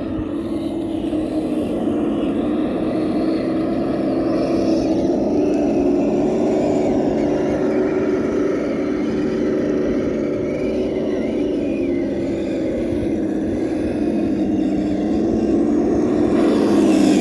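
Kyosho Blizzard radio-controlled tracked snowcat's electric motor and drivetrain whining steadily as it drives, the pitch starting to drop right at the end.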